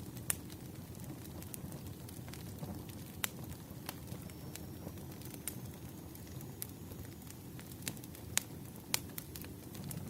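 Wood fire in a fireplace crackling: irregular sharp pops and snaps, a dozen or so, over a steady low rumble of the flames.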